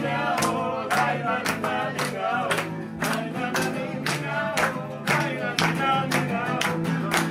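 Live music: a man singing over a steady low instrumental accompaniment, with a sharp beat recurring two or three times a second.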